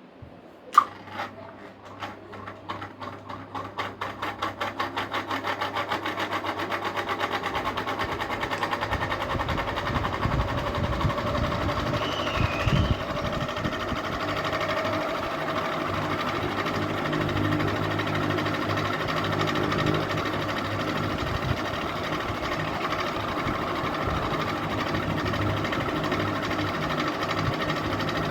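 Ceiling fan clicked on and spinning up: a beating whoosh that grows quicker over the first several seconds and settles into steady running with a low motor hum.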